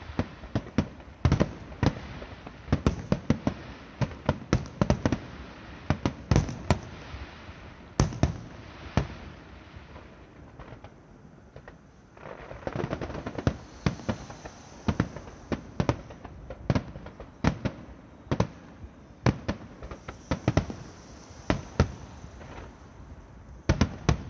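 Aerial firework shells bursting in quick succession: a run of sharp bangs, a short lull about ten seconds in, then a denser stretch of rapid pops before the single bangs resume.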